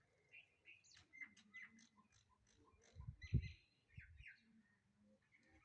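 Faint bird chirps, many short high calls scattered through the quiet, with a low thump about three seconds in.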